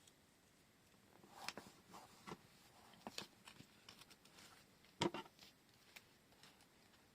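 Faint handling noise: scattered light clicks and rustles as washi tape rolls and their packaging are picked up and set down, with one sharper click about five seconds in.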